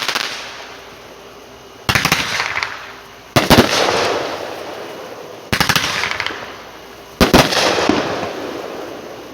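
Consumer fireworks cake firing shot after shot, four in all, about every one and a half to two seconds. Each shot is a sharp burst of rapid crackling pops that dies away.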